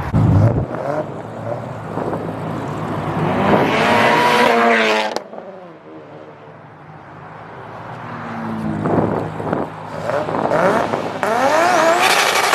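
A car engine revving hard as the car accelerates away, rising in pitch and then cutting off suddenly about five seconds in. Further hard accelerations with climbing engine notes follow in the second half.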